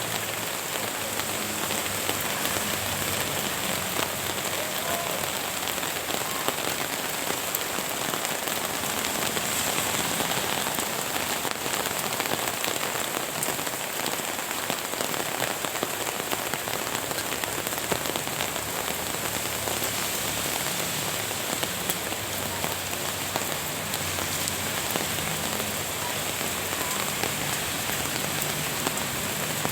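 Steady rain falling, with the ticks of many separate drops landing close by.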